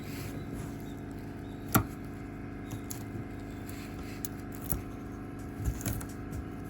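A few sharp knocks, one much louder about two seconds in and a few fainter ones near the end, over a steady low hum of sustained tones.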